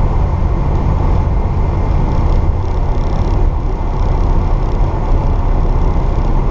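1964 Pontiac GTO's Tri-Power 389 V8 running at a steady speed while driving, with road noise.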